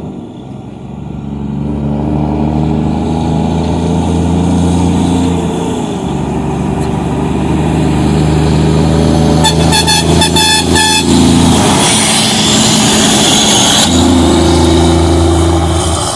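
Scania heavy truck's diesel engine running loud, its pitch shifting several times as it revs, with a rapid run of short horn toots, about eight in under two seconds, near the middle.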